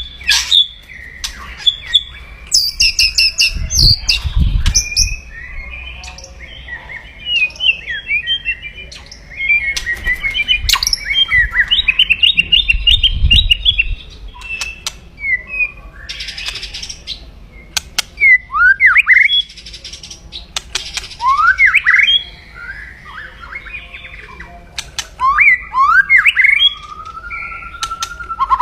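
White-rumped shama (murai batu) calling aggressively: sharp clicks and crackling 'kretekan' notes, a fast trill near the middle, and short rising whistles in the second half.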